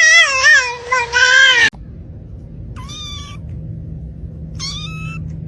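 A cat's long, wavering meow that cuts off suddenly about a second and a half in. Then, over a low steady hum, a cat gives two short, higher-pitched meows about two seconds apart.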